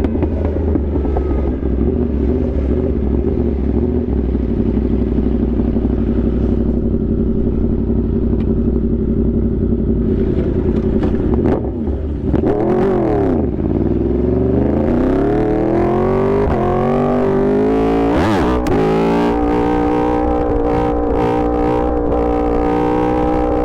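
Yamaha R1 sport bike's inline-four engine under way. It holds a steady note for about ten seconds, dips and blips briefly midway, then revs up with a long rising pitch, breaks for a quick gear change, and settles into a steady higher note near the end.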